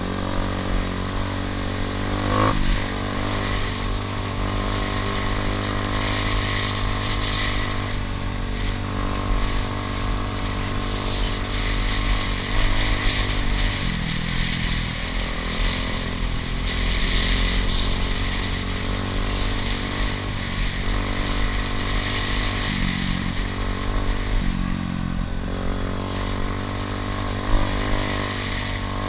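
Dirt bike engine running steadily while being ridden, its pitch shifting a few times with the throttle. A brief knock sounds near the start and a sharper one near the end.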